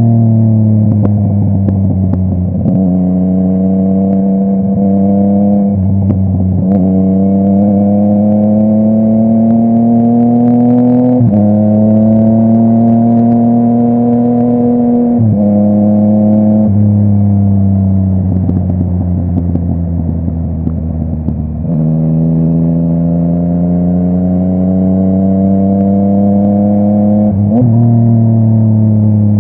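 Yamaha MT-09's three-cylinder engine through a full Akrapovic exhaust, pulling through the gears: the pitch climbs steadily in each gear and drops sharply at each upshift, about half a dozen times. The pitch also winds down twice, near the start and about two-thirds through.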